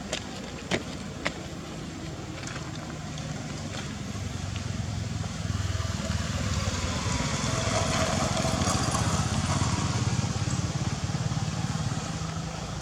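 A motor engine hums steadily, growing louder through the middle and easing off toward the end, like a vehicle passing. Three sharp clicks sound in the first second or so.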